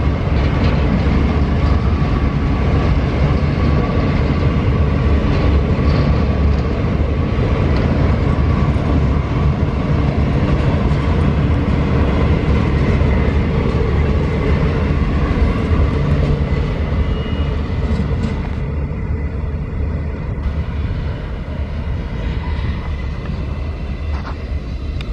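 Freight train of empty hopper wagons rolling past on the rails: a steady heavy rumble of wheels and cars with a thin steady squeal above it. It fades gradually near the end as the end of the train draws away.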